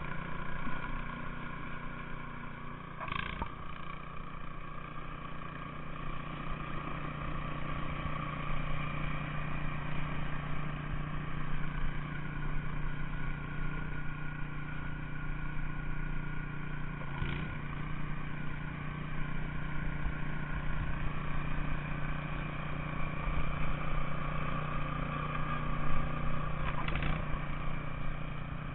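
An engine running steadily at a constant speed throughout, with three short, sharp noises over it: a few seconds in, about midway, and near the end.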